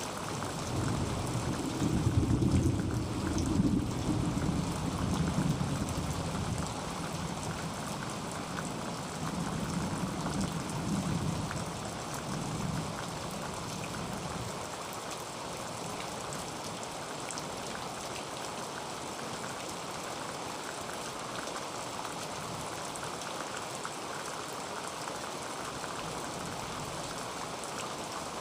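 Heavy rain falling steadily on a tin roof, with a low rumble of thunder rolling through the first half and dying away about halfway through.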